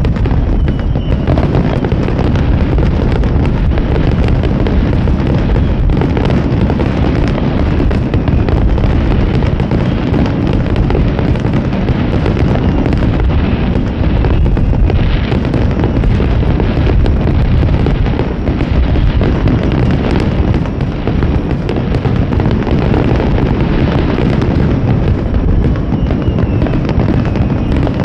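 Fireworks finale barrage: aerial shells bursting in quick succession so the booms and crackles run together into a continuous loud rumble with no break.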